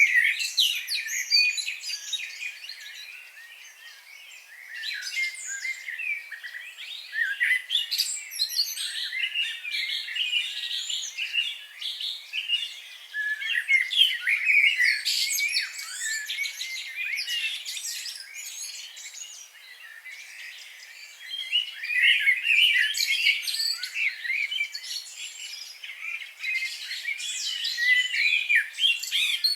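Several songbirds singing and chirping together in a dense chorus of quick high chirps and trills, thinning out briefly twice before picking up again.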